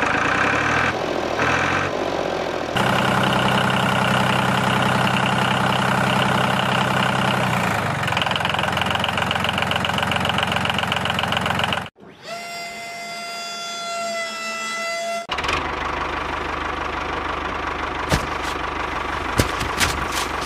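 Small electric gear motors of a toy DIY tractor whirring steadily as it drives and works the tipping trailer, the whine changing pitch abruptly a few times. Near the end, a few light clatters as sugarcane sticks slide off the tipped trailer.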